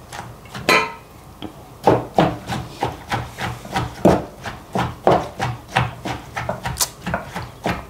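Pestle knocking in a mortar as papaya salad is pounded and mixed, in a run of uneven strokes, about two to three a second.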